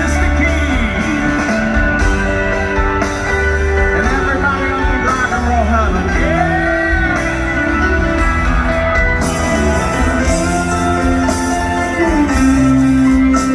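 Live rock band playing, with electric guitar lines that bend and glide in pitch over a steady bass and drum bed.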